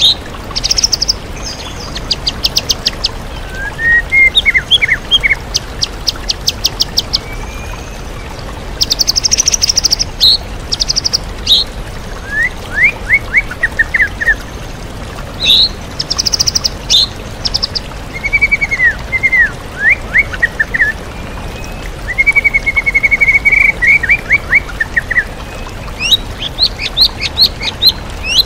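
White-rumped shama (murai batu) singing in repeated phrases of whistled slurs and rapid trills, its song full of other birds' calls mimicked, over the steady rush of a waterfall.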